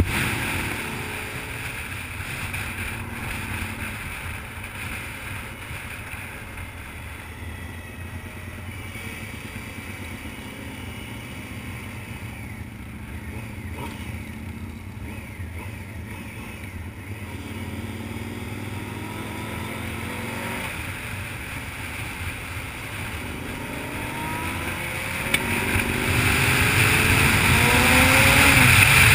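1994 Honda CBR600F2's inline-four engine running with wind noise, heard from a camera mounted on the bike. It drops back to a lower, steady drone about a second in, then the revs climb again over the last several seconds as the bike accelerates.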